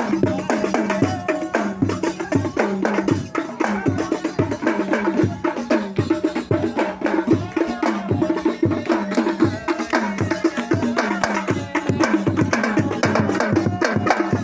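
Sholawat devotional music: hand drums beating a steady rhythm of about two strokes a second under voices singing.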